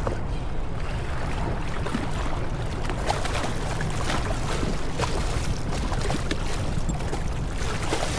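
Steady low rumble of wind and water noise from a boat out on the water, with scattered small clicks and splashes.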